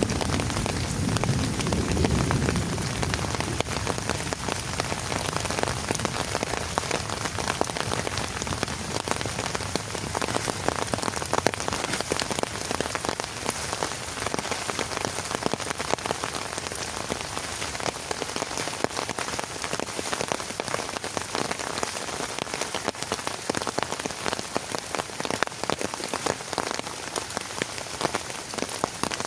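Heavy rain falling steadily, with many individual drops hitting a nearby surface. A low rumble in the first couple of seconds dies away.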